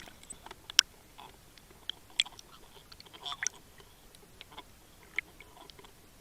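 Irregular sharp clicks and light knocks from a rod and reel being handled while a hooked fish is played. The loudest click comes about a second in.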